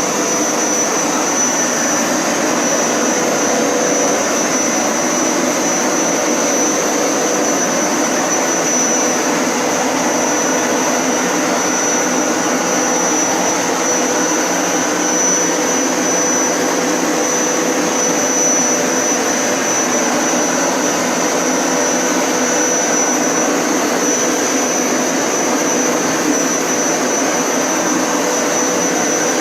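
Hoover Power Scrub Elite Pet upright carpet cleaner running steadily on its wash setting, its motor giving a loud, even suction noise with a constant high whine while it shampoos a rug.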